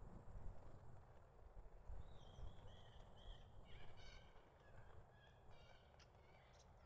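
Tits calling: a run of short, high chirping calls from about two seconds in until near the end, over a faint low rumble.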